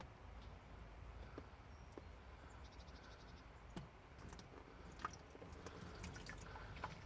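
Faint, sparse drips and small ticks of thick oil, which the owner believes has taken in water and congealed, draining out of the excavator's engine.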